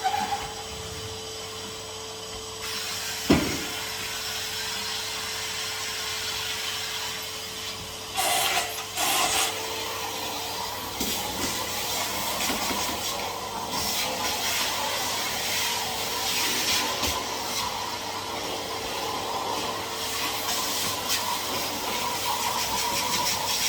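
Henry HVR200 cylinder vacuum cleaner running steadily with a constant whine and hiss of suction, as the nozzle is worked over surfaces. A sharp knock about three seconds in, and brief louder rasping noises around eight seconds in.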